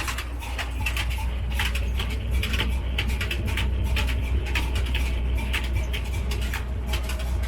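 Old slow-speed black diesel engine of a flour mill running: a steady low drone with irregular clicking and clatter over it.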